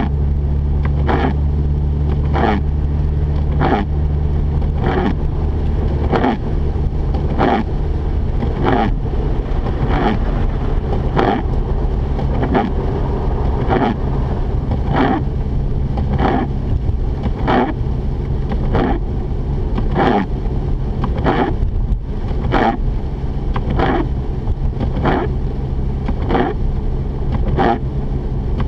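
Windshield wipers swishing across the glass in an even rhythm, about three passes every two seconds, over the steady drone of the Mazda RX-8's engine and tyres inside the cabin.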